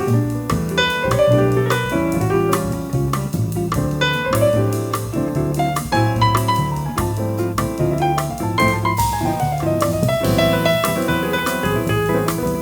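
Jazz combo playing an instrumental bossa nova break, with piano leading over bass, guitar and drums.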